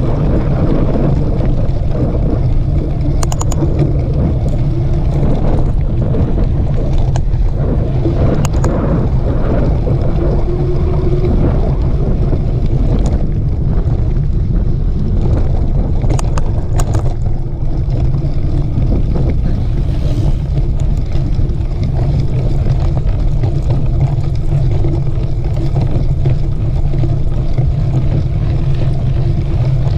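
Steady low wind rumble on the microphone of a moving mountain bike ride, with scattered clicks and rattles from the bike going over the trail.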